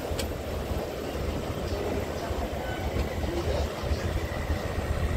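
Express passenger train rolling slowly out of a station, heard from a coach doorway: a steady low rumble of the moving coaches, with one sharp click near the start.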